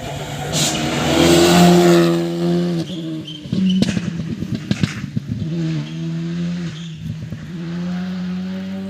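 A rally car's engine driven hard, revving up and dropping back several times through gear changes, loudest about a second or two in. A run of sharp cracks comes from about three and a half seconds in.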